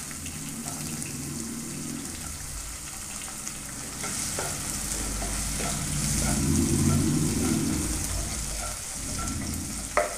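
Chopped garlic, ginger and green chillies sizzling in hot coconut oil in a non-stick pan. A spatula stirs and scrapes them, with a few light taps on the pan. The sizzle is loudest a little past the middle, and a sharp knock comes near the end.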